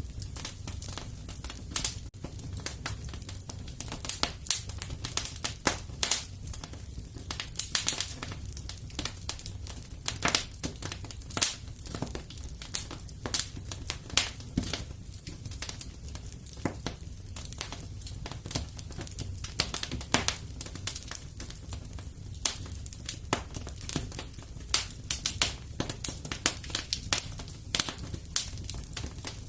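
Wood fire crackling in a fireplace: irregular sharp snaps and pops, often several a second, over a steady low rumble.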